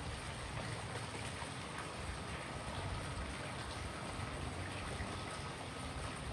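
Steady rushing noise of running water, with a faint thin steady tone held for about three seconds in the middle.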